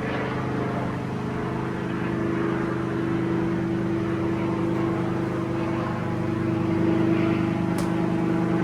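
An engine running steadily, a low hum that grows slightly louder over the seconds, with a brief faint tick near the end.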